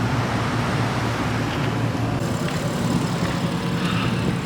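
Steady low vehicle rumble, with no distinct events.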